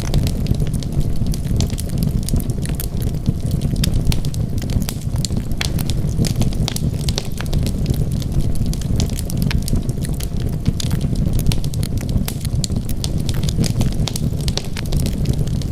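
Wood fire burning steadily, with a constant low rumble of flames and frequent irregular crackles and pops from the burning logs.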